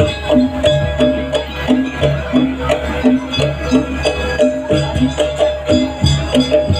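Traditional Indonesian gamelan-style music accompanying a barong dance: tuned metal percussion repeating short notes over drumming, in a steady, fast rhythm.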